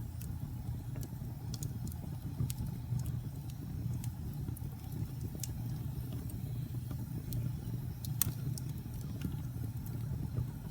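Wood fire burning in a fireplace: a steady low rumble with scattered sharp crackles and pops, the loudest pop about eight seconds in.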